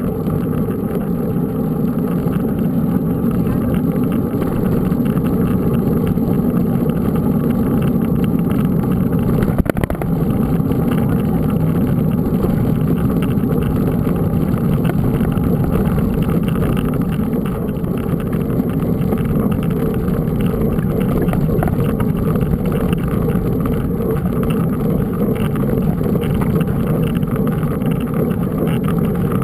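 Steady rush of wind on the microphone and rolling noise while riding a mountain bike, with one brief knock about ten seconds in.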